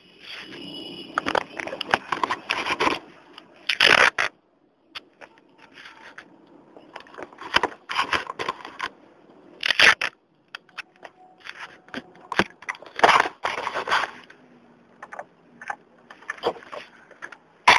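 Irregular scraping, rubbing and crackling against the microphone of a small onboard camera. The bursts are uneven, with short quiet gaps between them.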